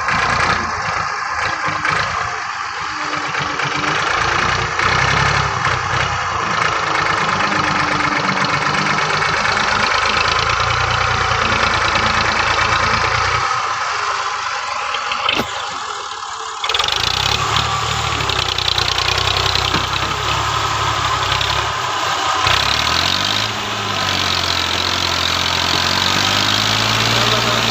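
Farm tractor's diesel engine running under load. Its low rumble drops out for a few seconds about 14 seconds in, then returns, and the engine revs up with a rising pitch about 23 seconds in.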